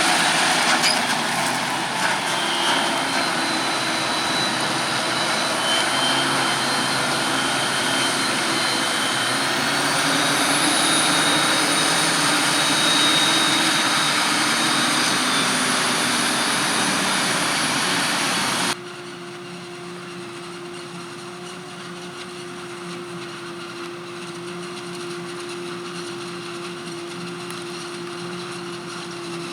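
Heavy farm machinery engines running during maize harvesting, a loud, dense machine noise that cuts off suddenly about two-thirds of the way through to a quieter, steady engine hum.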